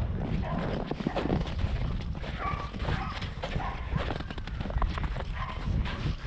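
Footsteps crunching through snow at an irregular walking pace, with a few short pitched sounds in between.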